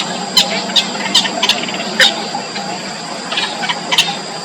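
Four-day-old nestlings cheeping: short, sharp, high calls in irregular clusters of a few at a time, with a burst near the start, another about two seconds in, and more near the end.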